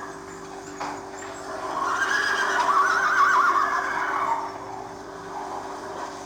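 A horse whinnying: one long, quavering call that swells and fades over about two and a half seconds.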